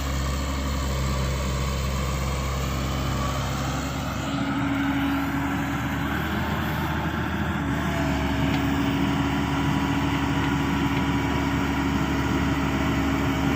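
An engine running steadily with a droning hum, its pitch stepping up about four seconds in and then holding.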